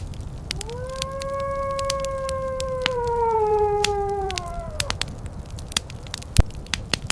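A long canine howl rises about half a second in, holds steady, then slides down in pitch and ends near the five-second mark. Behind it, a wood fire crackles with sharp pops.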